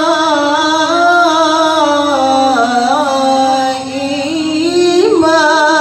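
A qari's voice in melodic Quran recitation (tilawah), holding one long ornamented note whose pitch wavers and turns, with a brief dip in loudness about four seconds in before the voice rises again.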